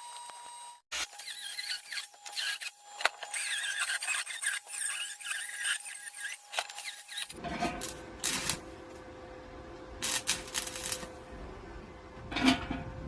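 Steel squealing and scraping as it is worked, a shrill, wavering scratchy noise. About seven seconds in it cuts to a lower, rougher workshop noise with a steady hum and a few sharp knocks.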